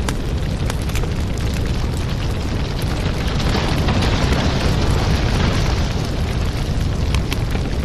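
Fireplace fire burning: a steady low rumble of flames with many small crackles and pops.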